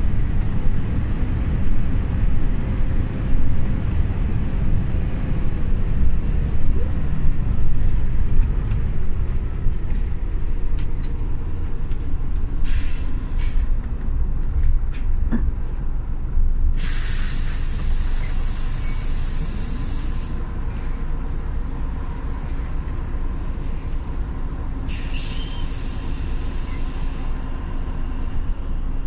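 Scania OmniLink city bus running with a steady low engine and road rumble, broken by bursts of compressed-air hiss: a short one about 13 seconds in, a long loud one around 17 to 20 seconds, and another about 25 seconds in.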